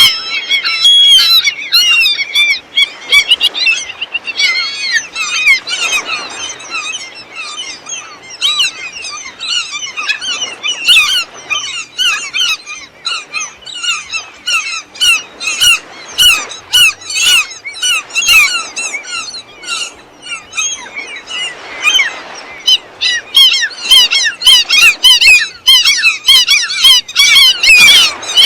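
A flock of gulls calling together, many short, high squawking calls overlapping without a break.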